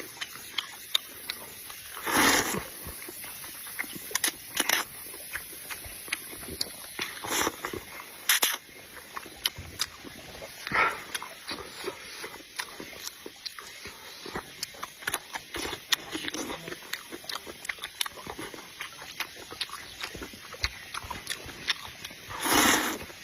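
Close-up eating sounds of pig ear and rice noodles: steady chewing with many small wet, crunchy clicks. Broken by about six louder half-second slurps or gulps, the last near the end.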